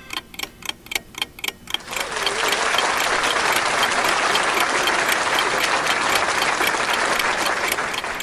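Sharp, even ticking about four times a second, like a clock, joined about two seconds in by a dense, steady hiss that fades near the end.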